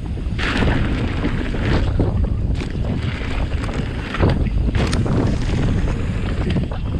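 Wind buffeting the microphone of a moving e-bike as a steady low rumble, with scattered sharp crackles and knocks from the ride over the forest trail.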